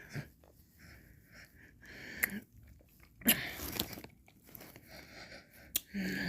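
Close-miked mouth sounds of ice cream being eaten and licked: scattered wet smacks and clicks of the lips and tongue, the loudest about three seconds in, with another short smack right at the end.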